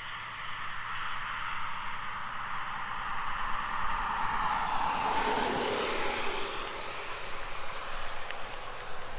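A car passing by on the road: tyre and engine noise swells to a peak about five to six seconds in, dropping in pitch as it goes past, then fades.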